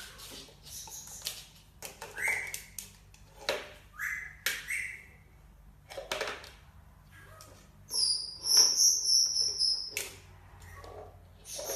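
Pet parrot making short chirps and then a loud, high, drawn-out whistle lasting about two seconds, among scattered light taps and clicks.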